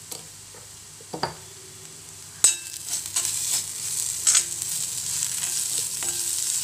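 Spice masala of shallots, tomato, cashews and ground spices sizzling in oil in a black kadai while a steel spoon stirs it, scraping against the pan. The stirring starts with a sharp clink about two and a half seconds in, after which the sizzle and scraping run on steadily.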